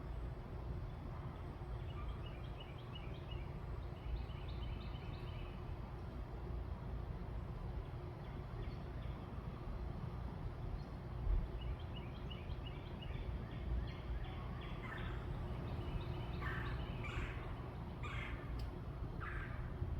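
Backyard birds calling: short, rapid chirping runs a few seconds in and again past the middle, then several louder, separate calls near the end, over a steady low background rumble.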